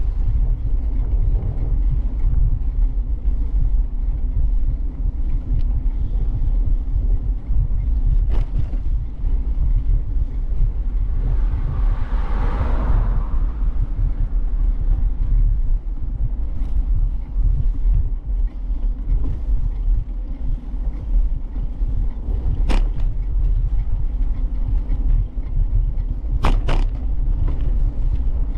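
Steady low rumble of wind and road noise on a bike-mounted camera's microphone while riding. A rushing sound swells and fades about halfway through, and a few sharp knocks come later, the last two close together near the end.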